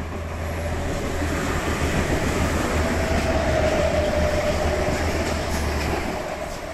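Adelaide Metro 3000-class diesel railcar passing through a station at speed without stopping. A rushing rumble of wheels and engine with a low drone underneath swells to its loudest about halfway through, with a brief whine at the peak, then fades as the cars go by.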